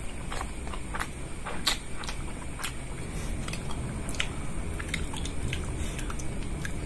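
A man chewing a mouthful of rice and spicy instant noodles, picked up by a lapel microphone, with irregular wet mouth clicks and lip smacks. The sharpest smack comes about a second and a half in.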